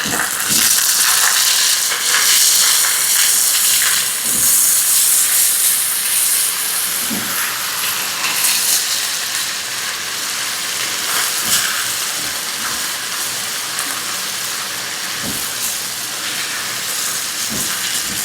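Potatoes, onion and tomato sizzling in hot olive oil in a frying pan. The sizzle is loudest in the first several seconds and then settles to a steadier, softer hiss, with a few faint knocks.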